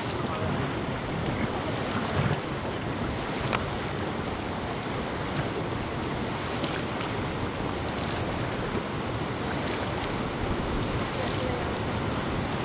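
River water rushing steadily, with wind buffeting the microphone, aboard a raft being paddled downstream.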